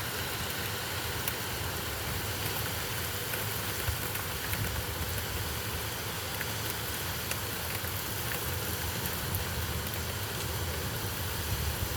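Steady heavy summer rain falling, a continuous hiss with scattered sharp ticks of individual drops striking nearby surfaces.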